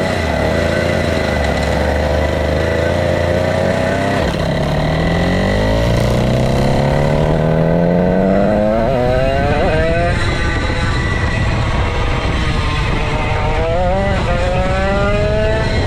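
Vintage Dino go-kart's 135cc Sudam engine running hard at race pace, its pitch climbing steadily as it accelerates. The revs dip and waver briefly twice, about nine and fourteen seconds in, before climbing again.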